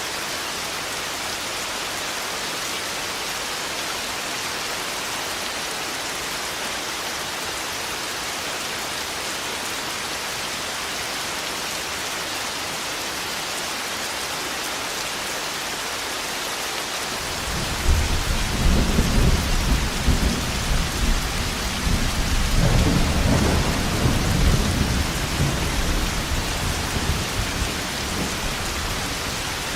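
Steady heavy rain, then about halfway through a long, loud roll of thunder rumbles in and carries on under the rain, fading near the end.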